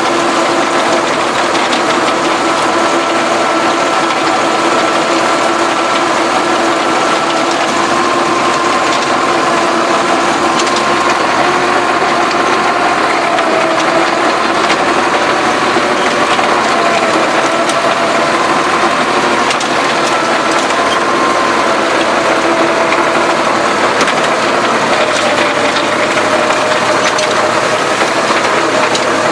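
Massey Ferguson tractor running steadily while working the soil, with whining tones that drift slightly in pitch over a dense mechanical clatter.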